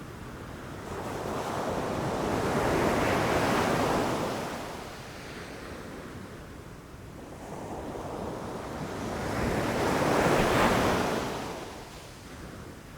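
Ocean surf: two waves break and rush in, each swelling over a few seconds and falling away, the second peaking near the end.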